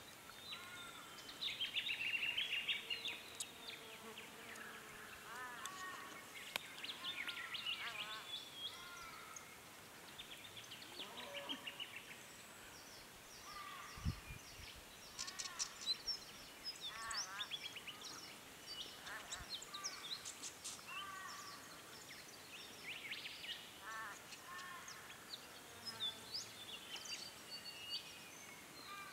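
Several small birds calling and singing at once: short chirps, sweeping whistled notes and fast trills overlapping throughout. There is a single low thump about halfway through.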